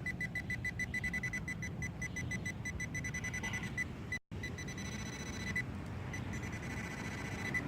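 Metal-detecting pinpointer probe beeping rapidly, about seven short high beeps a second, running into a near-continuous tone in the second half: it is sounding on a coin-sized target close by in the hole.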